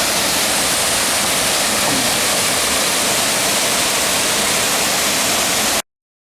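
Waterfall rushing with a steady, dense roar of falling water, with no break or rhythm. It cuts off suddenly near the end.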